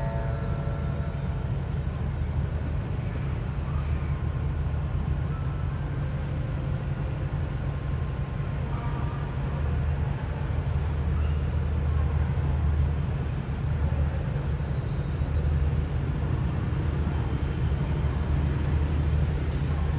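Diesel locomotive engine idling with a steady low rumble that swells slightly now and then.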